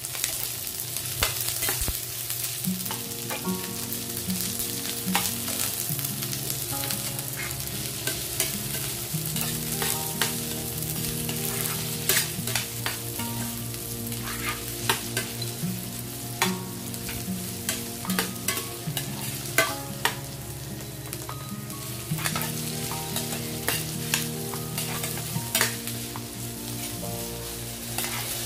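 Onions, garlic and ginger sautéing in hot oil in a stainless steel pan, sizzling steadily, while a slotted spatula stirs them and knocks and scrapes against the pan again and again.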